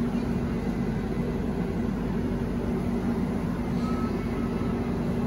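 Steady running noise of a passenger train at speed, heard from inside its coach: wheels rumbling on the rails, with a steady low hum.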